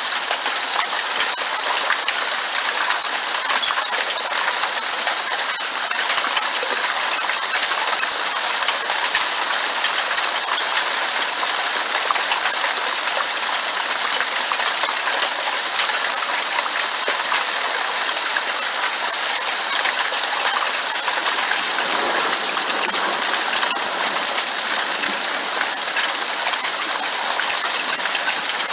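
Small hailstones falling with rain, a dense, steady clatter of many tiny ticking impacts over a constant hiss.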